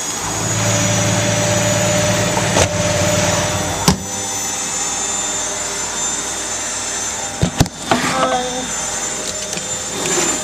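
Zanussi washing machine drum turning as it builds up toward spin, the motor humming low and steady. The low hum drops away with a sharp knock about four seconds in, and there is another sharp knock around seven and a half seconds.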